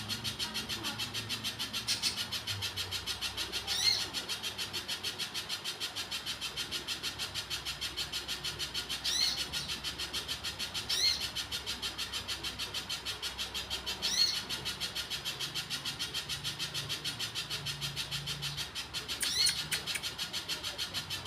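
Spiderhunter calling: six loud, sharp, upward-sweeping calls spaced a few seconds apart, over a fast, steady high-pitched pulsing trill and a faint low hum.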